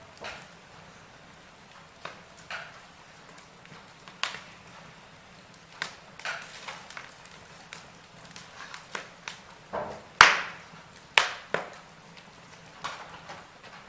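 Wood fire crackling in a fireplace: irregular sharp pops and snaps over a quiet background, the loudest pop about ten seconds in.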